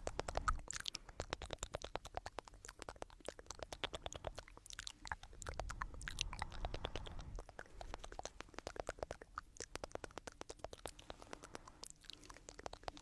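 Close-miked ASMR trigger sounds: a dense run of crisp clicks and scrapes, several a second, with a soft low rumble partway through.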